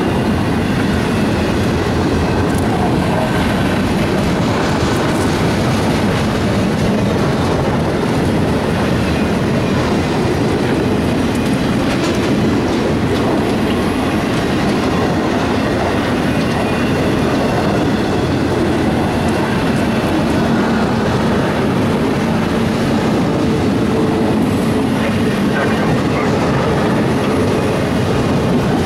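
Autorack freight cars rolling past close by: a loud, steady rumble of steel wheels running over the rails.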